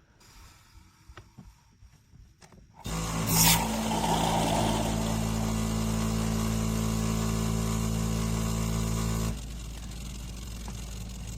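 De'Longhi fully automatic espresso machine running: after a few small clicks it starts up suddenly about three seconds in with a steady mechanical hum and a short hiss, runs evenly, then drops to a quieter steady sound about nine seconds in.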